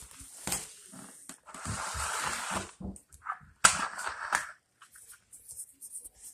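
A cat eating, making odd noisy chewing sounds in irregular bursts with clicks, the loudest starting sharply a little past the middle.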